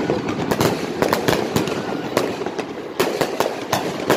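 Aerial fireworks exploding overhead: sharp bangs in quick, irregular succession, about two or three a second, over a continuous crackle of many more bursts.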